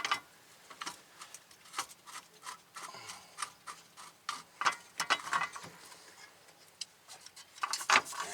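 Irregular light metal clicks and taps as a guide bolt is fitted by hand through a new rear wheel hub bearing, with louder clinks near the end.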